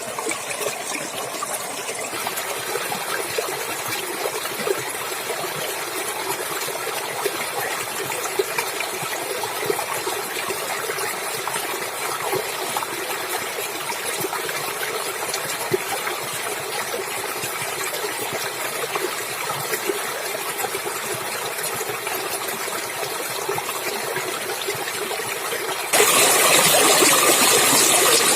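Running water in a small stream: a steady splashing rush. Near the end it abruptly becomes louder and brighter.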